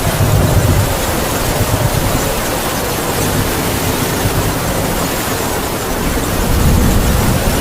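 Heavy rain falling steadily while wind howls, with a low gusting rumble that swells about a second in and again near the end.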